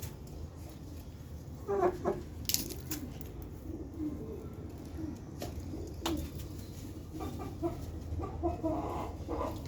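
Chickens clucking in short calls, one pair about two seconds in and a run of them in the last few seconds, over a steady low hum with a few sharp clicks.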